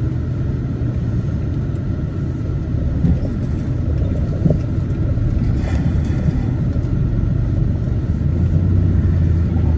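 Vehicle engine and road noise heard from inside the cab as it rolls slowly, a steady low drone. About eight seconds in the drone drops slightly and grows stronger.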